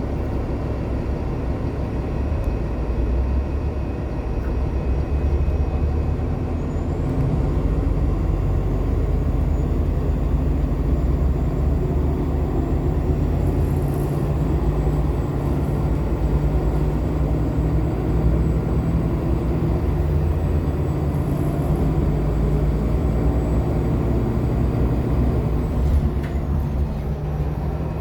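Cabin noise of a 2014 Nova Bus LFS articulated hybrid bus (Cummins ISL9 diesel, Allison H40 EP hybrid drive) under way: a steady low rumble that grows as the bus speeds up about six seconds in. A thin high squeal comes in soon after, holds, and fades out near the end. This is the squeal the bus makes each time it reaches about 35 mph.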